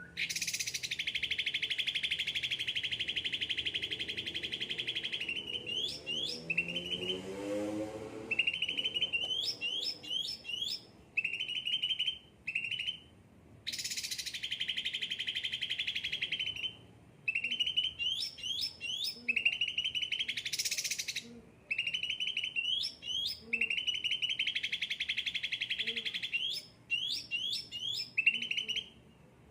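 Pet bird singing in long, rapid, buzzy trills that last several seconds each, broken up by short chirps and quick sweeping notes.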